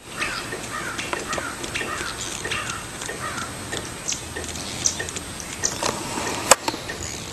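Birds calling outdoors, a quick run of short chirps that slide downward in pitch, repeated many times. A single sharp click comes about six and a half seconds in.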